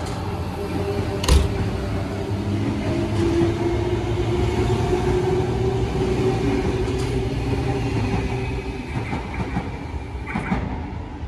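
Double-deck electric suburban train pulling out and running past, with a steady tone over the rolling noise and a sharp clank about a second in. The sound fades near the end as the train draws away.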